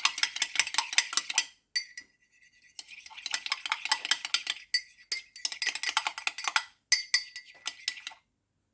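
Metal spoon stirring dish soap and water in a glass mug, clinking rapidly against the sides to work up foam, in four bouts with short pauses between them.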